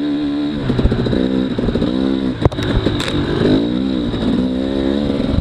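Dirt bike engine revving up and down over and over as the throttle is opened and closed, with a sharp knock about two and a half seconds in.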